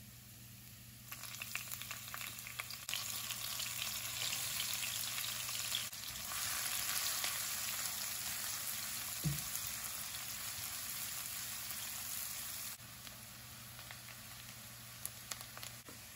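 Chopped garlic, chilli and onion sizzling in hot oil in a wok. The sizzle gets louder about a second in and again around six seconds, then drops back well before the end, with one brief knock about nine seconds in.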